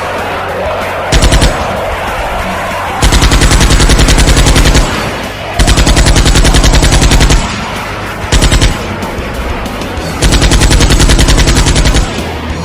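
Machine-gun fire sound effect in five bursts of rapid shots: two brief ones, about a second in and a little past the middle, and three longer bursts of nearly two seconds each, over a steady background.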